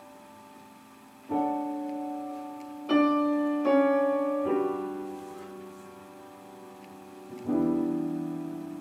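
Piano playing a slow introduction: chords struck about five times, each left to ring and fade.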